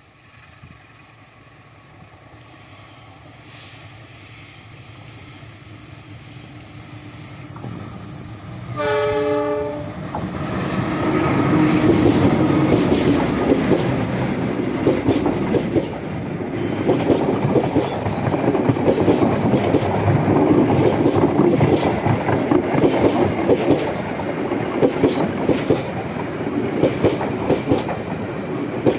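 KAI train approaching with a growing rumble, sounding its horn once for about a second, then passing at speed with loud, rhythmic wheel clatter over the rail joints.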